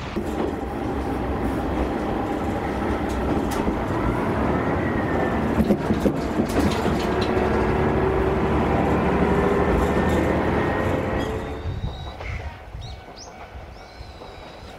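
Single-car diesel railcar running on the line, a loud steady rumble of engine and wheels with a few sharp clicks of wheels over rail joints around the middle. About twelve seconds in, the train sound drops away, leaving birds chirping.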